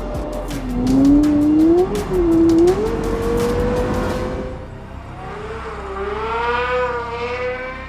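Porsche Carrera GT's V10 engine, breathing through a Kreissieg aftermarket exhaust, revving up and down as the car is driven hard, with music underneath. It is loudest in the first three seconds and sounds more muffled after about four and a half seconds.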